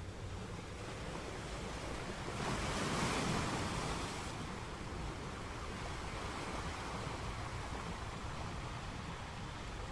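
Ocean surf: waves washing onto the shore in a steady rush, with one wave breaking louder about three seconds in.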